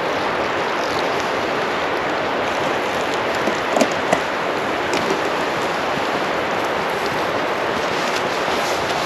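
Steady rush of running water, with a couple of faint knocks about four seconds in.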